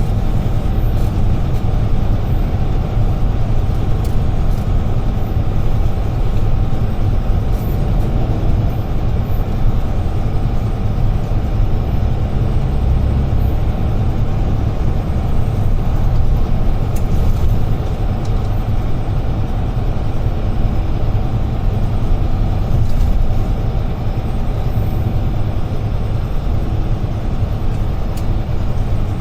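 Heavy truck heard from inside its cab while driving at steady speed: a constant low rumble of the UD Trucks Quon's diesel engine mixed with road and tyre noise, with no change in pitch.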